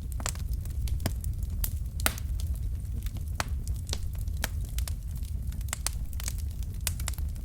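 Wood logs burning in a fireplace: irregular sharp crackles and pops, a few each second, over a steady low rumble of the fire.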